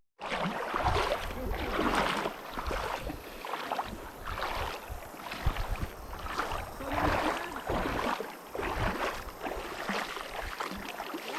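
River water sloshing and splashing close to the microphone, surging unevenly over a steady rush.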